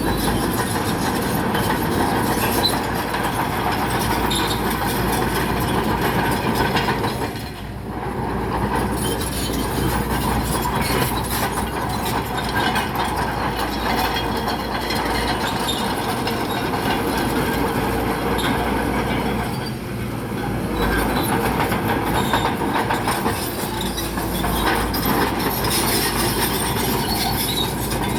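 Crawler bulldozer working, its diesel engine running under load while the steel tracks clatter and squeal. The noise dips briefly twice.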